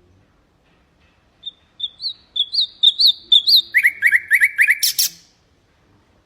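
Nightingale singing one phrase. A run of short rising whistled notes speeds into a quicker series of lower rising notes and ends with a sharp buzzy note about five seconds in.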